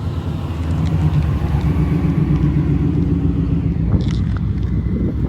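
A car engine and exhaust rumbling at low revs, growing louder after about the first second. A short hiss comes about four seconds in.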